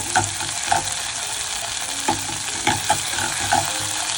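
A butter and flour roux sizzling in a pan while it is stirred, with a steady hiss and repeated short scraping clicks of the utensil against the pan.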